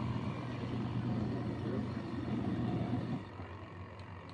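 Mini portable washing machine's motor running with a steady hum, stopping about three seconds in.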